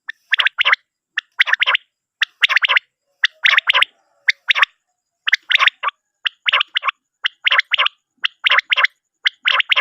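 Common quail calling: groups of two to four short, sharp notes, repeated about once a second.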